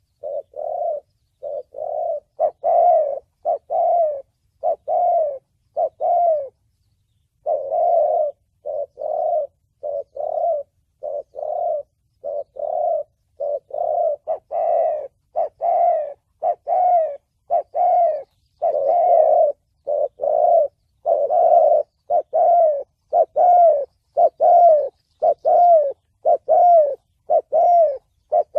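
Spotted dove cooing in the deep 'thổ bầu' voice, the kind of call played to lure wild doves to a trap: short coos repeated about one and a half times a second, with one brief break about six seconds in.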